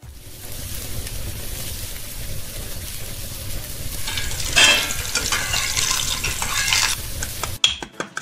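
Food sizzling and frying in a hot pan, a steady hiss that grows into louder spattering crackles about halfway through, then cuts off suddenly.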